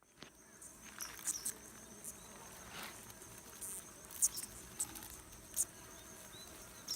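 A cricket trilling steadily on one high pitch, with short sharp high-pitched bird chirps breaking in now and then, the loudest a little past halfway.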